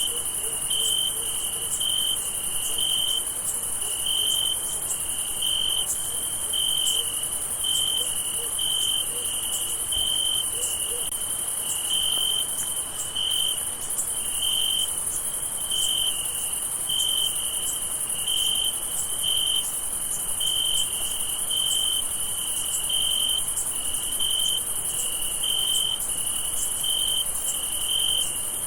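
Crickets chirping at night: one cricket gives an even chirp at about one and a half chirps a second, over a continuous high insect trill.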